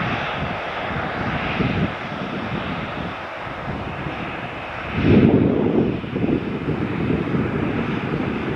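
Jet airliner engines close by, a continuous loud noise with a gusty low rumble that swells about five seconds in.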